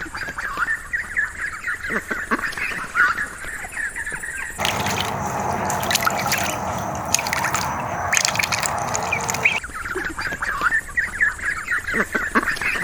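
Ducks calling, many short calls, with a stretch of about five seconds of dense splashing noise in the middle.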